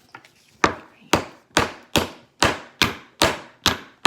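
Hammer driving a nail into the wood of a child's wooden monster truck kit: a steady run of about nine sharp strikes, roughly two a second, starting about half a second in.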